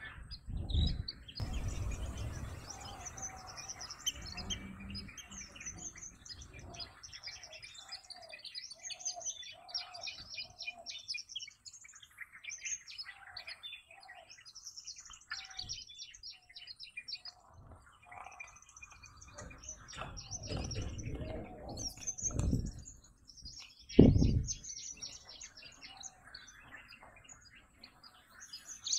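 Many wild birds chirping and calling, with one bird repeating a short mid-pitched note several times a few seconds in. Low rumbling bumps break in now and then, the loudest a short sharp thud near the end.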